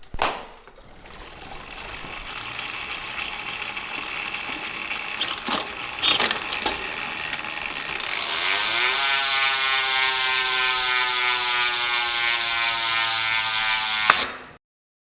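Bicycle freewheel hub buzzing as the wheel spins and coasts: the pawls click so fast they make a loud ratcheting whir whose pitch falls slowly as the wheel slows. It cuts off suddenly near the end. Before it there is a softer rising whir with a couple of clicks.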